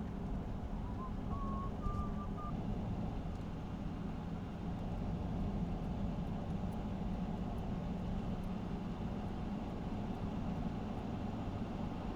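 A vehicle driving along a road: steady engine and tyre rumble. About a second in, a short faint high tone wavers for a second or so.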